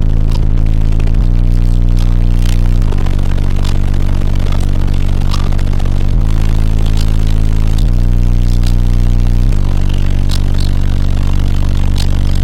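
Car audio subwoofer system playing bass-heavy music at high level. Deep bass notes hold for a second or more and change pitch several times, with scattered sharp rattles and clicks.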